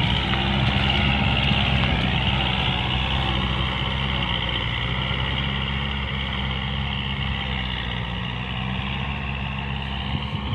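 Kubota compact tractor's diesel engine running steadily while mowing, with the whir of the spinning mower deck over the engine's low hum.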